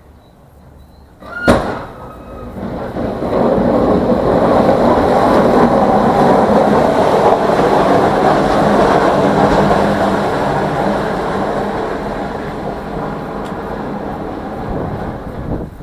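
A sharp click, then a heavy vehicle passing: a loud rumbling noise that builds over a couple of seconds, holds, and slowly fades.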